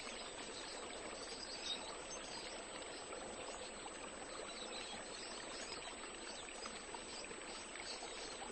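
Faint, steady rush of running, trickling water, with a few faint high chirps over it.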